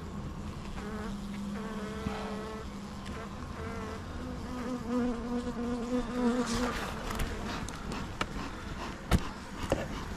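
Honeybees buzzing close by, individual bees flying past with a steady wing-beat hum that shifts in pitch and is strongest in the middle. A few sharp knocks near the end.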